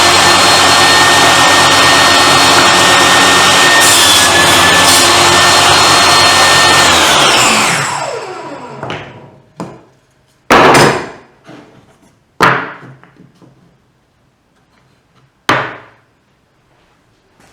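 Table saw motor running steadily with a whine, then switched off about seven seconds in and winding down in a falling tone. After it, four sharp wooden knocks a second or more apart, the loudest about three seconds after the saw stops.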